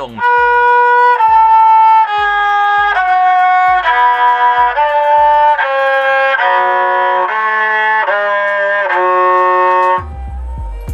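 Saw sam sai (Thai three-string fiddle) playing a descending scale, one bow stroke per note: about eleven sustained notes, each just under a second, with a soft low thump at the start of each.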